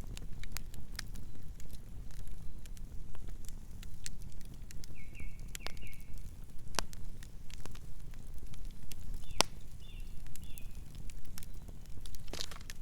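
Campfire burning: wood crackling with frequent sharp snaps over a low steady rumble, with three louder pops, the last near the end. A few short, faint high whistles come in around the middle.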